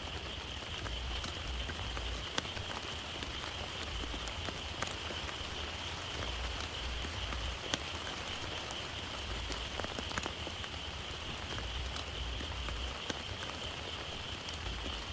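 Steady heavy rain, with a few louder single drops ticking sharply now and then.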